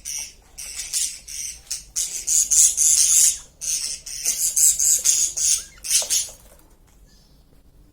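Small pet birds, parrot-type, giving rapid, harsh high-pitched squawks and chattering calls in quick bursts that stop about six and a half seconds in.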